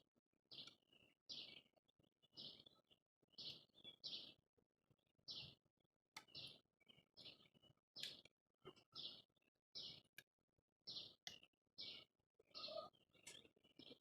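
Small birds chirping: a run of short, high chirps, one or two a second.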